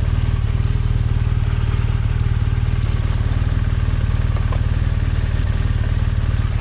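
BMW R1200GS Adventure's boxer-twin engine idling steadily, with a few faint ticks over it.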